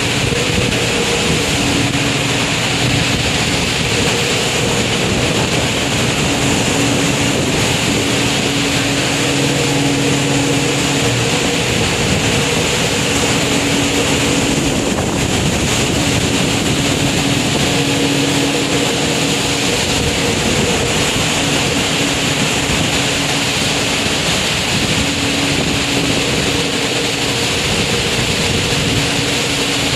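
Aboard a ship in a storm: loud, steady rush of wind and sea with a low machinery hum that fades in and out.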